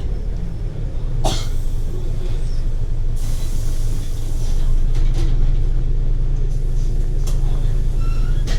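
Onboard rumble of a Scania L94UB city bus's compressed-natural-gas engine and drivetrain while driving, swelling a little a second in and again around the middle. A sharp knock comes about a second in, and a short burst of hiss follows around three seconds in.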